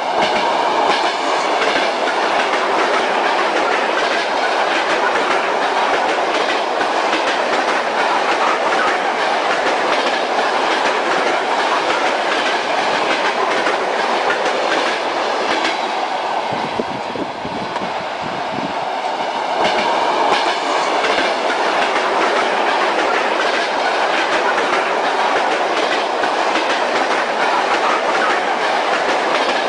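Train running along the track: steady rumble with the clickety-clack of the wheels over the rail joints. It eases briefly just past halfway, then picks up again.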